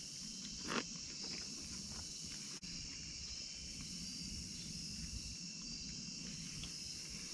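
Steady, high-pitched chorus of insects chirring, with a brief rustle about a second in.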